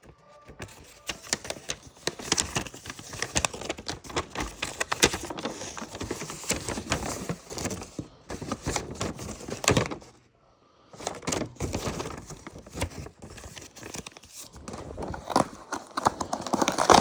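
Toy packaging being handled and opened: irregular crinkling, rustling and tearing, with a short pause about ten seconds in.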